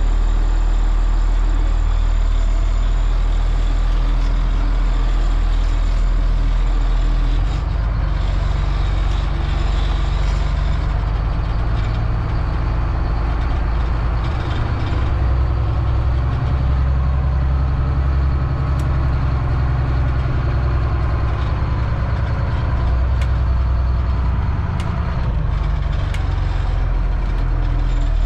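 Caterpillar C7 diesel engine of a Blue Bird All American bus running with a steady low drone that changes in pitch and level about a quarter of the way in and again past the middle, with a few faint clicks in the second half.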